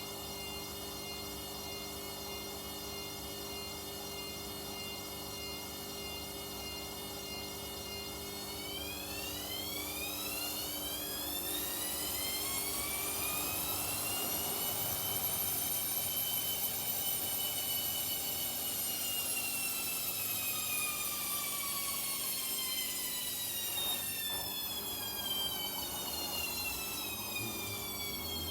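Front-loading washing machine in its spin: a steady motor whine that, from about nine seconds in, climbs in pitch as the drum speeds up. It holds at its top speed for several seconds, then slowly falls in pitch, under a steady lower hum.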